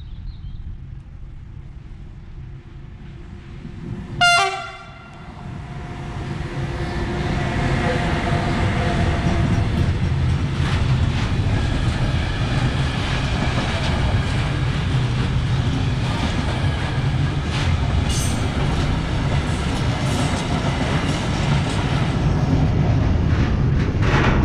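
Container freight train: a short, loud horn blast about four seconds in, then the train passes close by with a steady rumble of wagons and wheels clicking over the rail joints.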